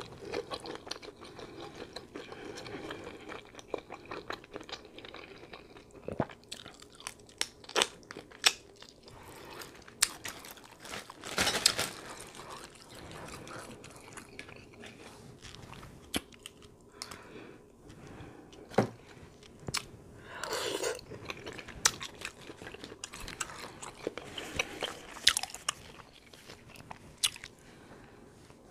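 A person chewing and biting shrimp, with irregular wet mouth clicks and smacks throughout and a few louder bursts about a third of the way in and again past two-thirds.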